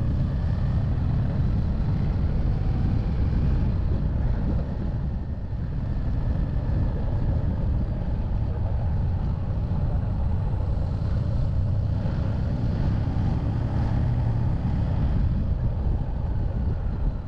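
Harley-Davidson Street Rod 750's V-twin engine running steadily under way, with road noise.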